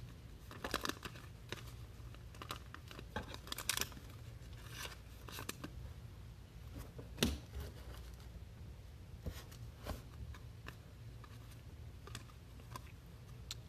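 Scattered soft rustles and clicks of trading cards and card packs being handled, over a low steady hum.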